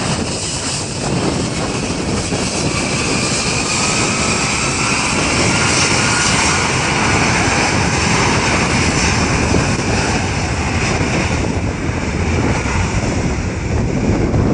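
Jet airliner's engines passing, a steady rumble with a slowly rising whine and a high hiss that fades near the end.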